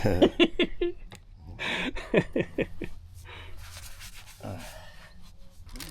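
A man laughing in two quick bouts of short, rapid pulses, the second starting just under two seconds in.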